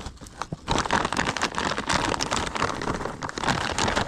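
Store-bought charcoal being tipped onto a burned-down wood fire: a dense, irregular run of clattering and rustling.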